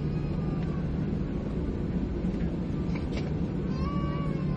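Steady low drone of a Boeing 737-800 cabin, with the engines and air system running. A short, high-pitched gliding sound comes near the end.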